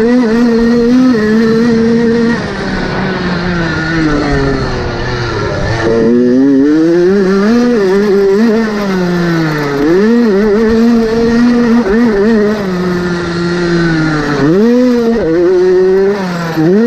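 Motocross bike engine revving hard, its pitch repeatedly climbing and dropping as the throttle is opened and closed, with a deeper dip about six seconds in and quick up-and-down revs near the end.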